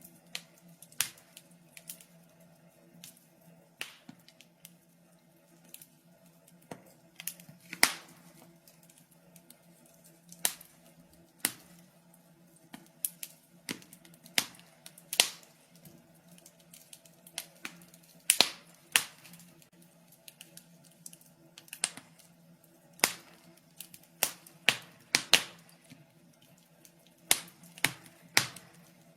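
Wood fire in a fireplace crackling: irregular sharp pops and snaps, some louder than others, sometimes in quick clusters, over a faint steady low hum.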